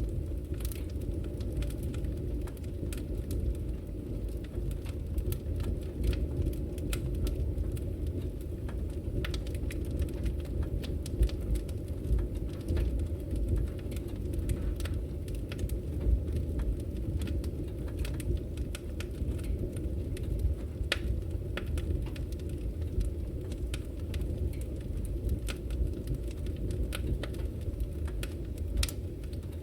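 Fireplace wood fire crackling quietly: a steady low rumble with irregular sharp pops and snaps scattered throughout.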